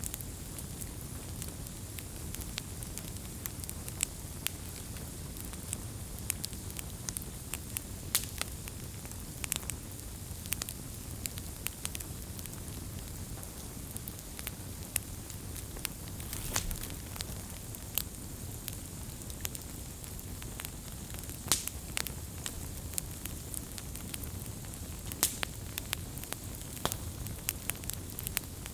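Campfire burning: a steady low rumble of flames with sharp crackles and pops at irregular moments, a few of them louder.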